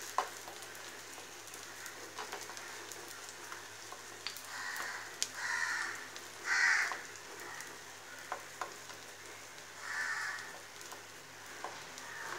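Oil sizzling steadily in a pan as a thick adai of semiya batter fries, with light taps and pats of fingers pressing it flat. A bird calls with short harsh cries several times, the loudest about two thirds of the way through.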